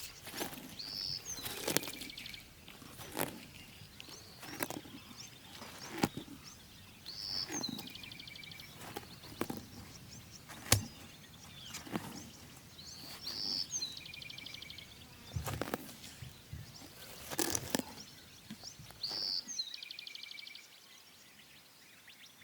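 A songbird repeating the same short, high phrase, a note then a quick trill, about every six seconds, among scattered snaps and rustles. A single sharp click about ten seconds in is the loudest sound.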